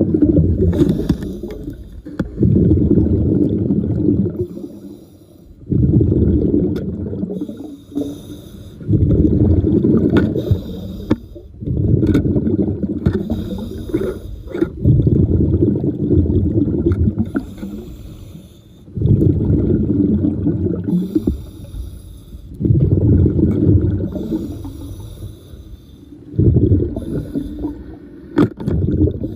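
A diver breathing underwater through a regulator: each exhaled burst of bubbles gives a loud, low, bubbling rumble lasting two to three seconds, about every three seconds, with a fainter hiss of inhalation in between.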